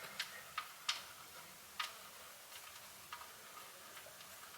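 Irregular light metallic clicks from a wrench being worked on an oil pan drain plug to loosen it. The clicks come a few to the second early on, then grow sparser.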